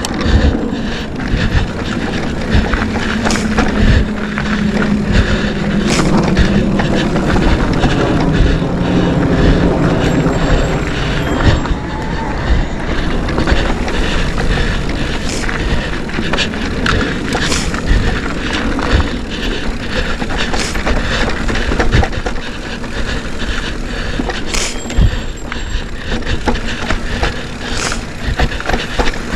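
Mountain bike ridden along a dirt trail: continuous rumble and rushing noise of the ride, with frequent sharp knocks and rattles as it goes over bumps, and a low steady hum during the first third.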